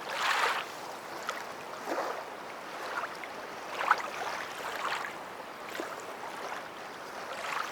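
Water lapping and splashing in small irregular surges, one every second or two, with faint clicks.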